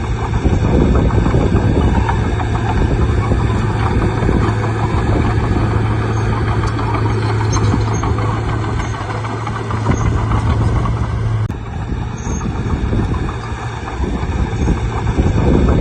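Bulldozer's diesel engine running steadily with a strong low hum, with the grinding noise of the machine working over it. A sharp click about three-quarters through, after which the level briefly drops.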